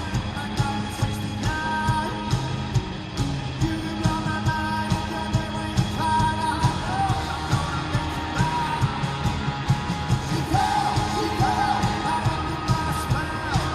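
Live rock band playing: drums keep a steady beat under sustained chords, and a voice sings a wavering melody from about seven seconds in.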